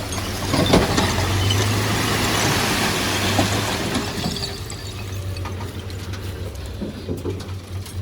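Diesel engine of heavy construction machinery running steadily, with a broad rushing, clattering noise that swells over the first few seconds and fades away about halfway through.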